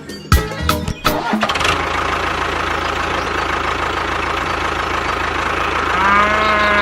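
A few sharp hits in the first second or so, then an engine starts up and runs steadily. Near the end a short pitched call rises and falls over the running engine.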